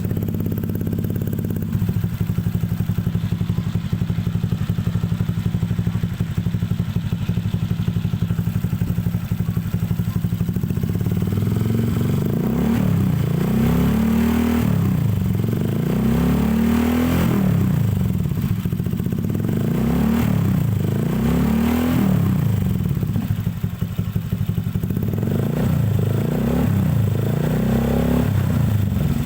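Honda Vario 125 scooter's single-cylinder four-stroke engine running through a plain aftermarket racing silencer. It idles steadily at first, then from about ten seconds in it is blipped again and again, the pitch rising and falling with each rev. The note is fairly dense and mellow with a slightly hollow ring.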